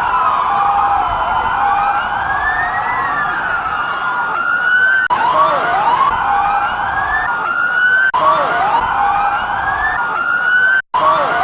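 Several emergency-vehicle sirens wailing at once, their rising and falling tones overlapping. The sound breaks off abruptly twice, as at an edit, and drops out completely for an instant near the end.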